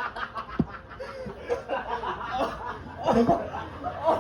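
People snickering and chuckling, with a couple of dull thumps.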